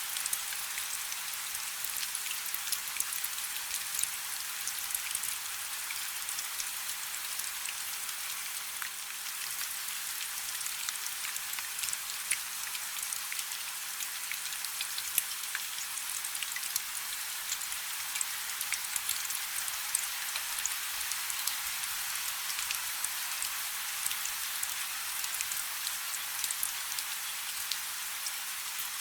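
Steady rain falling on a river: an even hiss of rain dotted with many small, sharp drop impacts, constant throughout.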